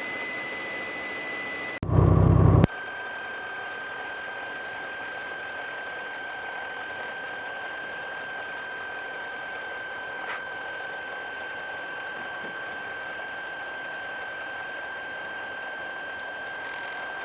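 Steady engine and cabin noise of a Mooney M20K light aircraft at low power, with a steady high whine running through it. A short, loud, low-pitched burst comes about two seconds in, and the whine settles slightly lower in pitch after it.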